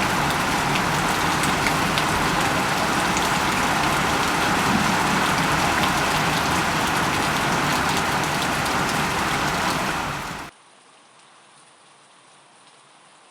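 Heavy rain pouring down: a dense, even hiss with scattered ticks of drops striking a surface. About ten seconds in it cuts off abruptly to a much fainter rain hiss.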